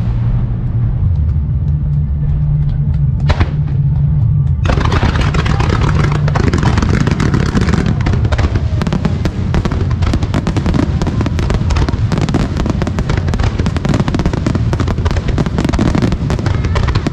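Low music notes and a single firework bang, then from about five seconds in a dense, continuous barrage of rapid firework bursts from a music-synchronised starmine (rapid-fire fireworks display).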